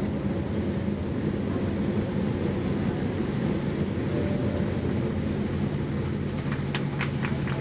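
Steady low rumble of a Boeing 787-8 passenger cabin, with a low hum. Rapid rattling clicks set in near the end.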